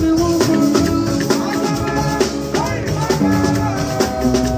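Yoruba party band music with drums and shakers keeping a steady beat under held instrument tones.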